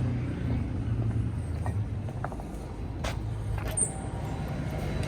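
Steady low engine rumble, with a few light clicks and taps about two to four seconds in.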